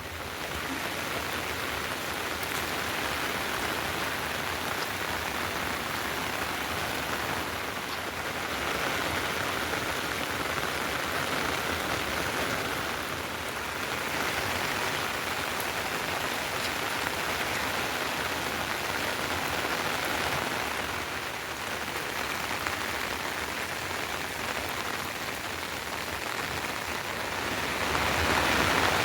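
Heavy rain falling steadily, growing louder near the end.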